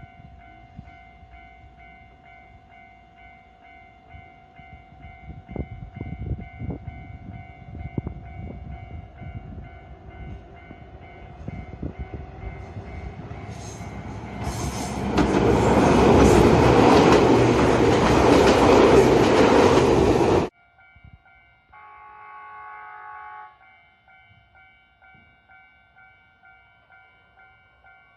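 Electric local train with scattered wheel clicks, then a loud rushing noise that builds and cuts off abruptly, followed by a short train horn blast of about a second and a half; faint steady tones run underneath.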